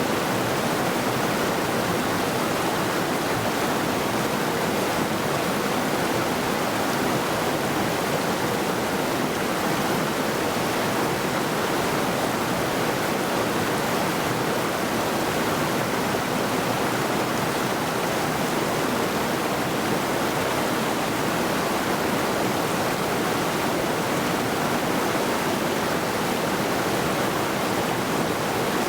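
A mountain river rushing steadily over rocks, a constant even wash of moving water.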